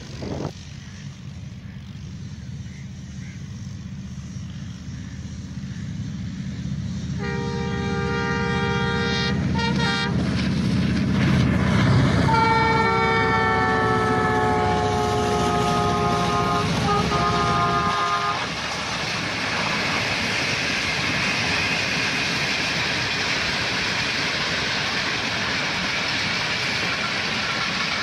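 ZCU-30 diesel-electric locomotive approaching with its engine rumble growing louder and sounding its horn, several notes at once: a blast about seven seconds in, a short toot, then a long blast that falls in pitch as it passes. The engine rumble drops away after about eighteen seconds, leaving the steady rush of the passenger coaches rolling by on the rails.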